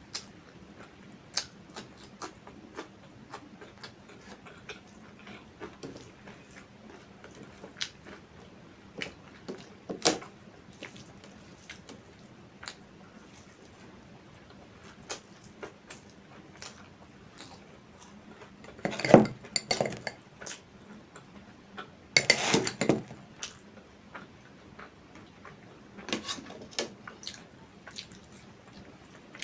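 Close-miked eating: scattered small clicks and smacks of food being handled and chewed, with louder clatters of dishes and cutlery a little past the middle and a few more near the end.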